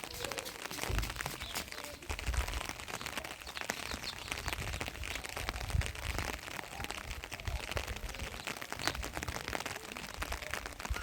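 Heavy rain pattering in a dense crackle, with a few low thumps on the microphone.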